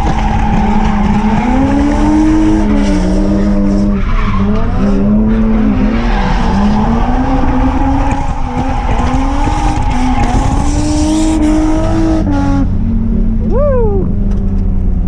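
BMW E46 M3's straight-six engine revving up and down through a drift, with tyres skidding. Near the end the tyre noise stops and the engine settles to a steadier, lower note.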